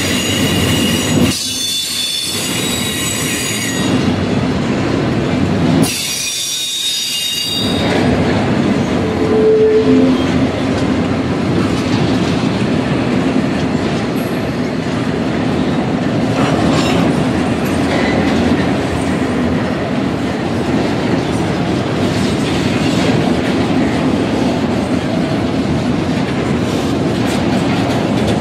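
Double-stack intermodal freight train of container-laden well cars rolling past, its wheels rumbling and clattering steadily over the rails. High-pitched wheel squeal rings out for the first few seconds and again briefly about six seconds in.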